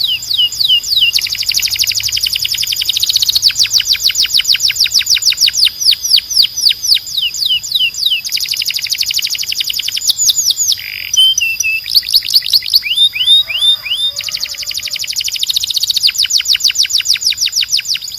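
Domestic canary singing: long, fast rolls of repeated downward-sweeping whistled notes, broken by short pauses, with a few slower, separate notes about two-thirds of the way through.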